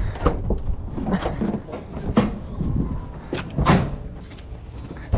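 A series of clunks and knocks, with a louder one about a second in, another just past two seconds and the loudest near four seconds, over a low rumble.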